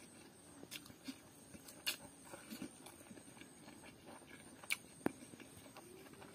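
Faint close-up eating sounds: a man chewing a mouthful of pork curry and rice, with a few sharp wet smacks and clicks scattered through.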